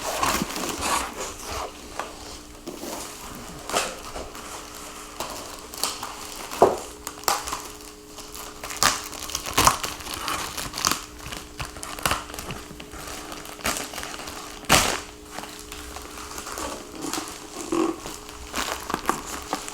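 Packing material being handled and pulled open: irregular crinkling and tearing with sharp crackles and snaps, the loudest about fifteen seconds in.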